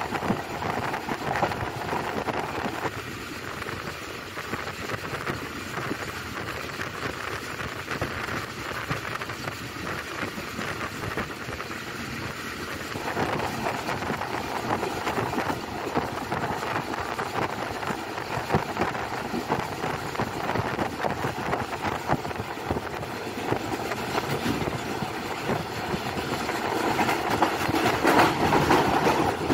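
Passenger train running along the track: a steady, dense rail noise that grows louder near the end.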